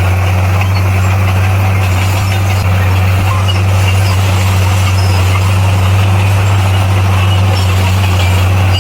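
Bulldozer's diesel engine running steadily, a loud constant low drone that holds the same pitch throughout.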